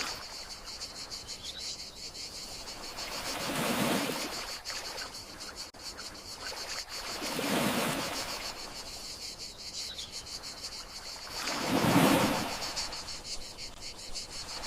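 Gentle sea waves washing in, three swells about four seconds apart, over a steady high trill of crickets.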